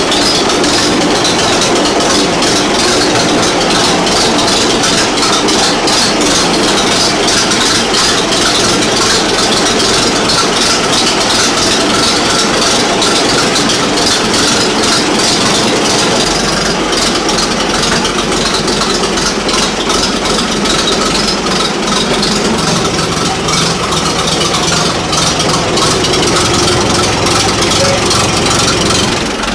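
1940 Fordson N tractor's four-cylinder side-valve engine running steadily with a busy rattling note; about halfway through its sound shifts as a deeper low hum comes in.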